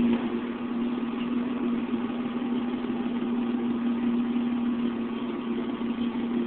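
2003 Ford Ranger's 4.0 V6 idling steadily through a Flowmaster 40 muffler, settling down from a rev at the start.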